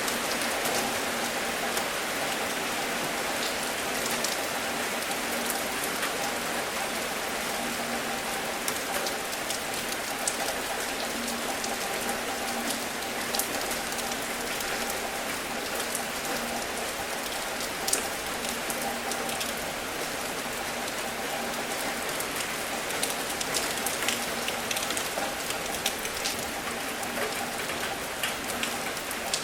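Steady rain falling: a continuous even hiss with many sharp ticks of individual drops landing close by.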